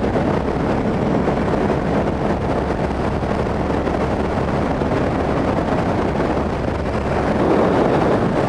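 Harley-Davidson motorcycle running steadily at highway speed, its engine hum buried under a heavy rush of wind on the microphone.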